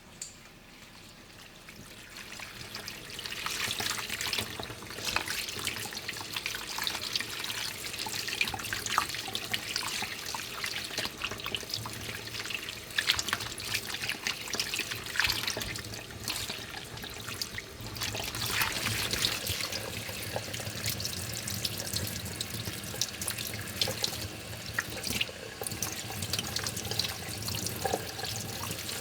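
Water running from a kitchen tap into a sink, splashing over things being rinsed under it, with small knocks and splashes throughout. It grows louder over the first few seconds.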